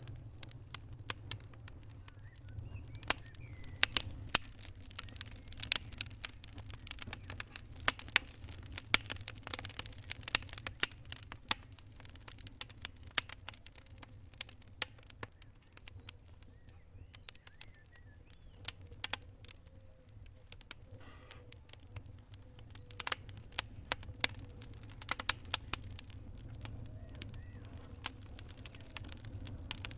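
Wood fire crackling: irregular sharp snaps and pops, thick in some stretches and sparse in others, over a steady low rumble.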